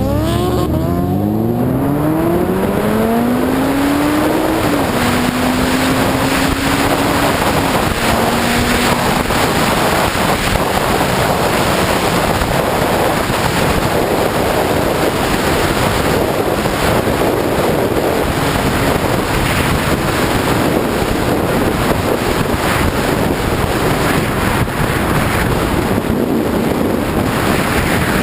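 Sport motorcycle engine accelerating, its pitch climbing for the first few seconds, then dropping at an upshift and fading under heavy wind rush on the microphone at speed.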